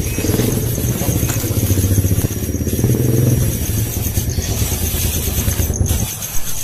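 A small engine, like a motorcycle's, running with a fast, even pulsing, dropping away about six seconds in.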